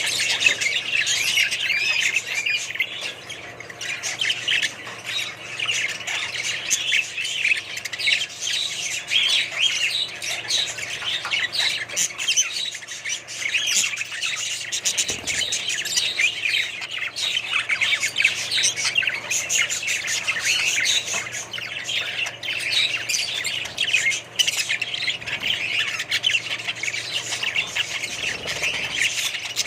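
A flock of small caged parrots chirping and squawking continuously, many calls overlapping at once.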